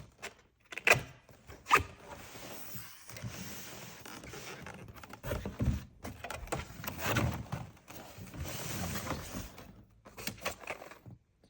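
Cardboard box and packaging being opened and handled by hand: two sharp knocks about a second in, then stretches of scraping and rustling with a few smaller knocks.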